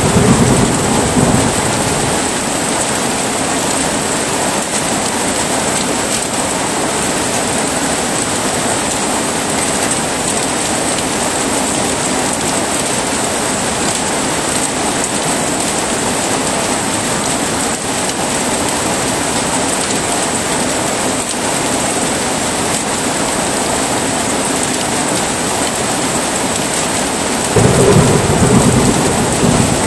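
Steady heavy rain falling, with rolls of thunder: one rumble dies away in the first second or so, and another rolls in near the end.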